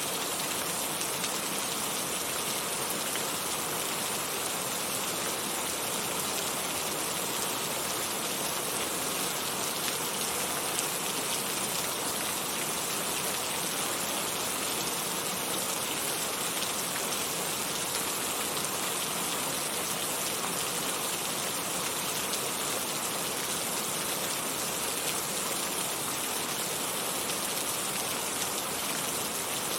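Heavy rain falling steadily, a dense even hiss of drops with no changes in strength.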